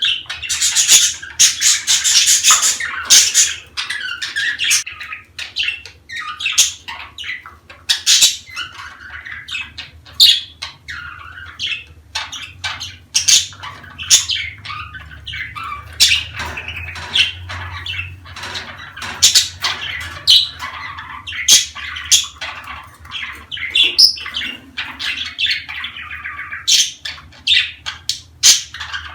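Budgerigars chattering and warbling without a break, a dense mix of squawks, chirps and sharp clicks: the busy flock chatter played to budgies to bring them into breeding.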